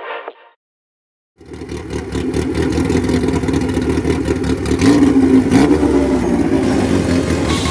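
Car engine running loudly, coming in suddenly after a second of silence, with a brief rev that rises and falls near the middle.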